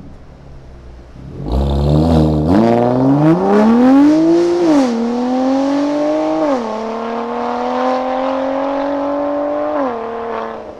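BMW S55 twin-turbo inline-six with catless resonated downpipes and an equal-length midpipe, accelerating hard through the gears. The exhaust note climbs in pitch and drops sharply at three upshifts, then fades away near the end.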